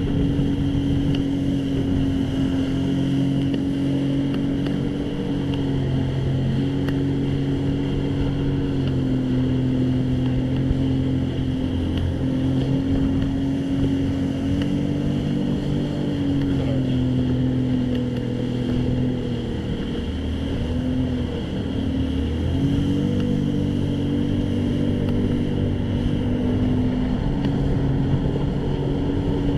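Jet ski engine running steadily under way. About two-thirds of the way through the throttle eases off, the pitch drops, then it climbs back up again.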